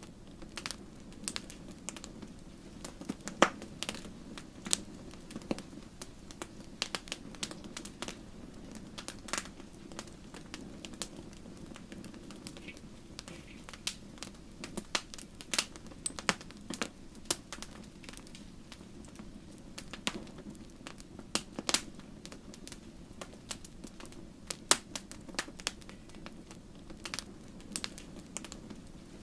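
Wood fire burning in a fireplace, the logs crackling and popping with sharp, irregular snaps over a steady low rumble of the flames.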